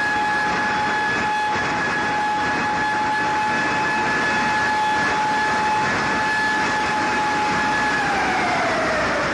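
A siren held on one steady tone over loud rushing noise, then sliding down in pitch near the end as it begins a wail.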